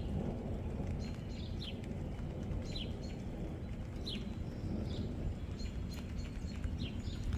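A bird repeats short, high, falling chirps about once a second over a steady low rumble of outdoor noise as rain begins.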